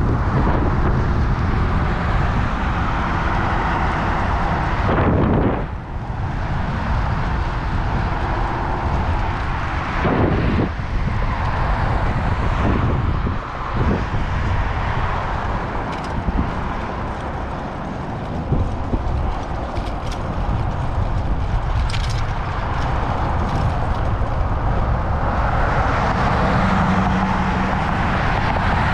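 Steady wind noise rushing over an action camera's microphone while riding a bicycle on the road, mixed with road and traffic noise. Several brief clicks or knocks come through about halfway.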